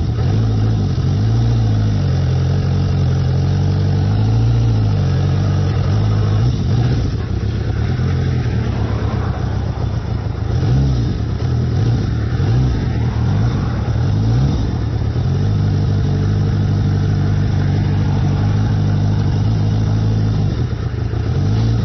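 Yamaha XS1100 motorcycle's air-cooled inline-four engine running under way, its pitch rising and falling several times with throttle and gear changes, then holding steady in the last several seconds.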